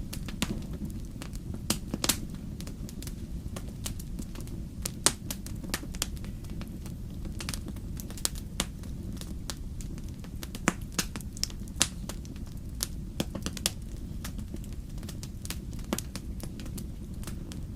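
Wood fire burning in a fireplace: a steady low rumble of the flames with irregular crackles and a few sharper pops from the burning logs.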